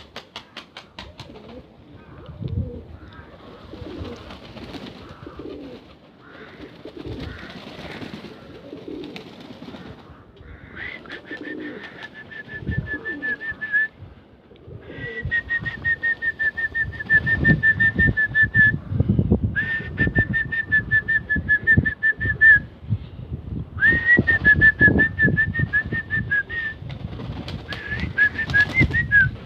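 Pigeons cooing, with wind buffeting the microphone. From about ten seconds in, four or five bursts of a high, steady, rapidly pulsing whistle, each lasting a few seconds, are the loudest sound.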